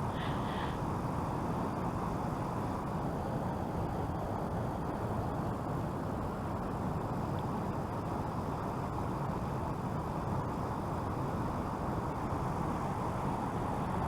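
Steady low rushing background noise, with a brief high chirp right at the start.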